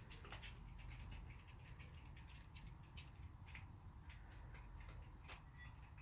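Raccoons eating cat food: many faint, irregular small clicks, the sound of their feeding.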